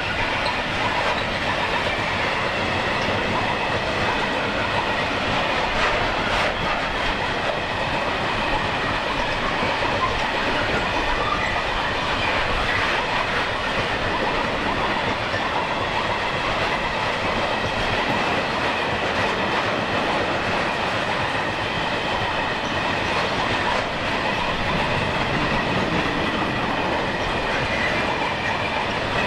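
Long freight train of empty flat wagons rolling past steadily, its wheels clattering over the rail joints, with a faint high squeal from the wheels.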